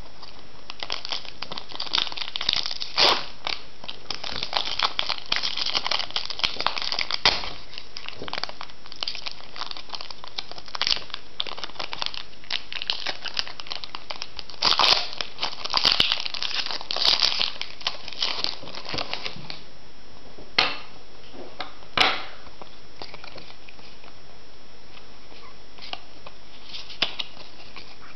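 Foil booster-pack wrapper crinkling and tearing as a Pokémon trading card pack is opened, with busy stretches of crackling for most of the first twenty seconds. Later come a few single sharp crackles.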